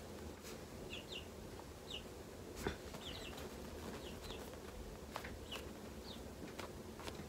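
Faint bird chirping in the background: short, high falling chirps, often in pairs, repeating every second or so, with a few light clicks and taps.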